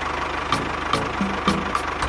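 A tractor engine running steadily, under background music with a regular beat.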